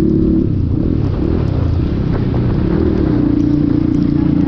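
Cross X 250 SE dirt bike's engine running at a steady pace under way, a steady drone over low road rumble.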